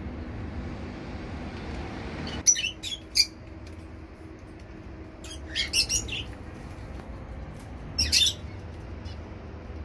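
Zebra finches giving short, sharp calls in scattered bursts, several together a little past halfway. A steady low hum stops about two and a half seconds in.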